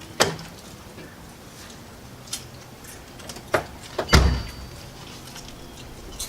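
A few sharp knocks and clunks over a low background, the loudest a heavy thump about four seconds in.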